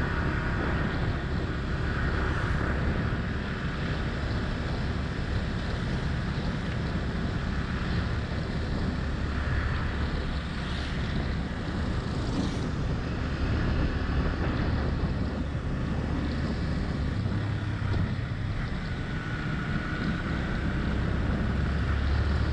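Yamaha R15 V3 motorcycle riding along, its single-cylinder engine running steadily under wind rushing over the microphone, with a faint rising engine whine near the end.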